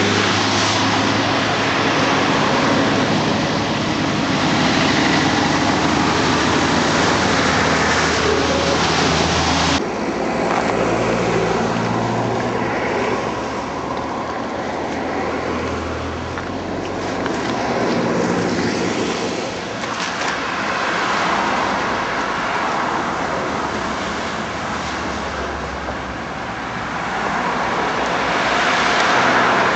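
Road traffic running steadily: a rumble of passing cars with a noisy hiss over it. The low rumble cuts off abruptly about ten seconds in, and the sound then rises and falls more gently.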